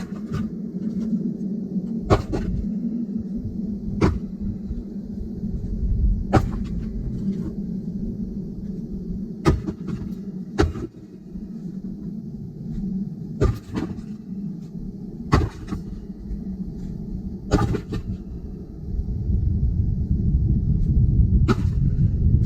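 Axe splitting firewood: about ten sharp strikes, roughly one every two seconds. Under them runs a steady low rumble that grows louder near the end.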